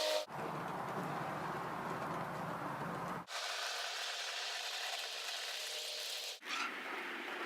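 Steady hissing heard in several edited clips, with sudden cuts about a third of a second, three seconds and six and a half seconds in. A low hum runs under the first stretch.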